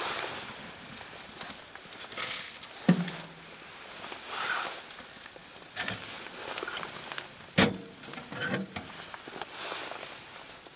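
A small fire of fatwood and shavings crackling as it catches in a wood stove, with several sharp knocks, the loudest about three seconds in and just before eight seconds.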